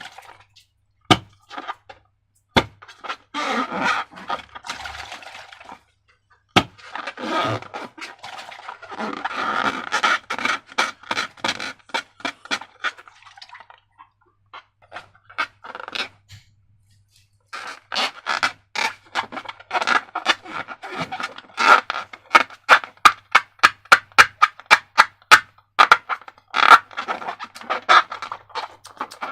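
Slime being worked and squished by hand: crackling, sticky squishing in bursts, then after a short quiet spell a long run of quick sharp clicks and pops, several a second.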